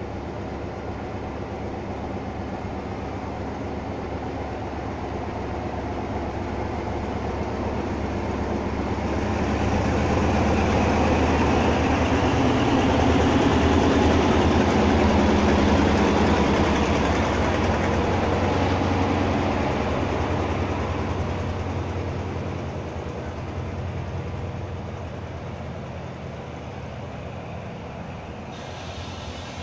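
Diesel locomotive of an express passenger train pulling slowly through a station. Its engine hum and the rumble of the wheels on the rails grow steadily louder, are loudest about halfway as the locomotive and the first coaches pass close by, then fade as the coaches roll past.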